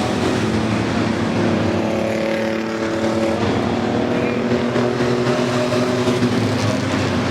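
A pack of racing trucks' engines running at speed around a short oval. The engine notes overlap and rise and fall as trucks pass and change speed.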